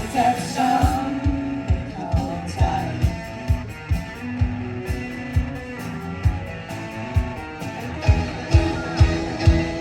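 Live rock band playing an instrumental passage without vocals: guitar with bass over a steady kick-drum beat of about two strokes a second.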